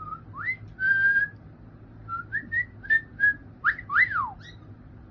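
Cockatiel whistling: a string of short clear notes with one held note about a second in, ending in quick up-and-down swooping calls.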